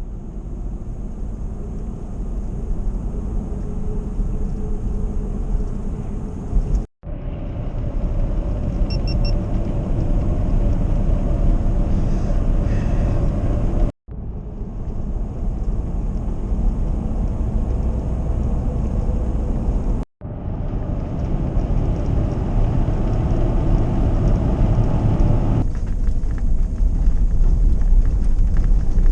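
Truck driving: a steady low road and engine rumble, in four clips joined by abrupt cuts.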